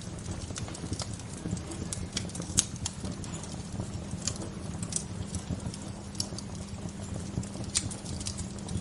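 Wood fire crackling: irregular sharp pops and snaps, the loudest about two and a half seconds in, over a steady low rushing.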